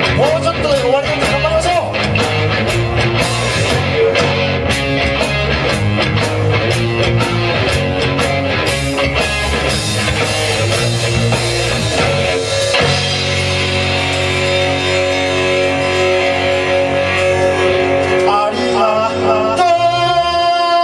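Rock band music with electric guitar and drum kit: a steady drum beat under guitar for the first half, then sustained chords, with a long held, wavering note near the end.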